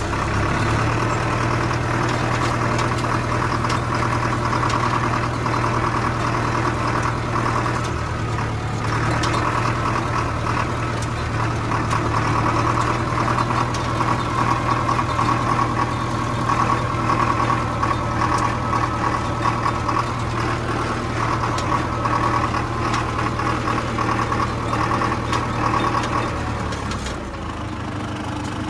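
Farmtrac 6055 tractor's common-rail diesel engine running steadily, its low hum easing off slightly near the end.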